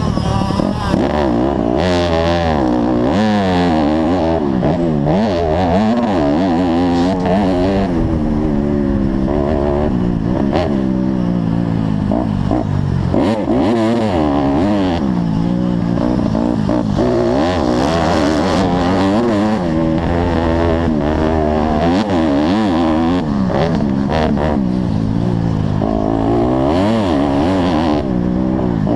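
Motocross bike engine racing, its pitch sweeping up and down again and again as the throttle is opened and closed and gears are changed.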